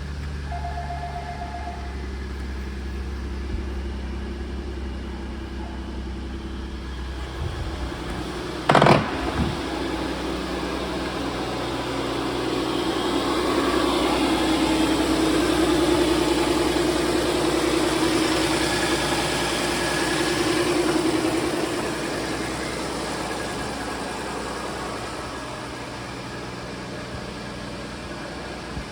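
2013 Ford F-150's 3.5 L EcoBoost twin-turbo V6 idling steadily after start-up, growing louder for several seconds partway through before settling back. A sharp click sounds about nine seconds in.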